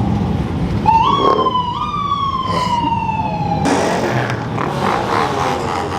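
A siren gives a short whoop, jumping up in pitch twice in quick succession about a second in, then sliding slowly down before cutting off suddenly past halfway. Car engines rumble underneath throughout.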